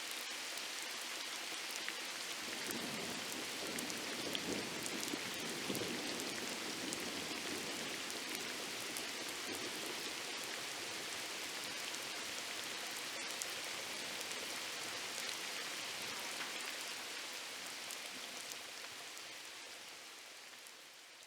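Steady rain falling on a surface: an even hiss with the fine ticks of individual drops, a little fuller a few seconds in, fading out over the last few seconds.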